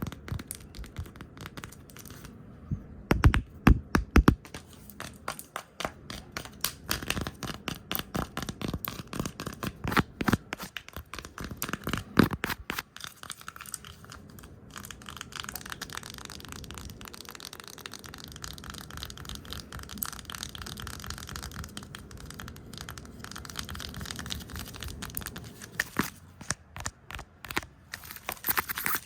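Fast, chaotic close-up ASMR tapping, brushing and hand sounds: rapid taps and scratches, with a few loud knocks about three to four seconds in and again near twelve seconds. A steadier brushing rustle fills the middle, and quick tapping returns near the end.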